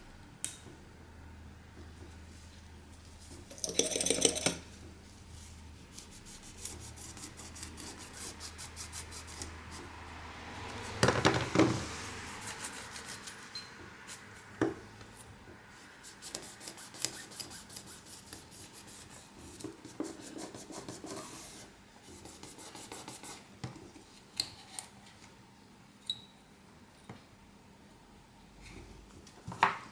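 Small hand tools and parts being worked on a phone on a workbench: rubbing and scraping, with scattered light clicks and taps, stretches of rapid fine ticking, and two louder scraping bursts, one about four seconds in and a bigger one around eleven seconds in.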